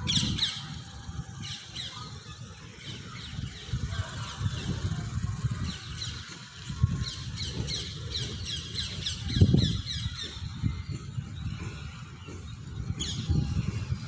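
Birds calling in runs of quick, high, downward-sweeping chirps, most busily in the middle of the stretch, over an uneven low rumble of wind on the microphone.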